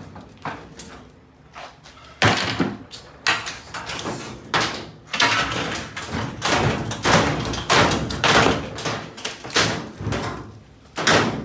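A Kenmore Elite top-load washing machine being struck over and over: a run of irregular, loud hard blows with clattering between them, starting about two seconds in.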